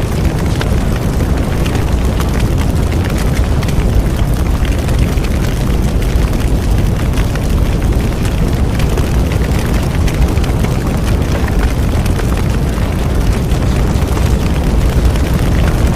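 Bonfire burning: a steady low rumble of flames with many small crackles and pops throughout.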